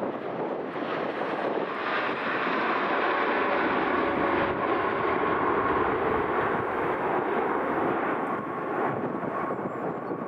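Boeing 787-9 jet engines passing close by, a rushing roar that swells about two seconds in and stays loud through the middle, with a faint steady whine running under it.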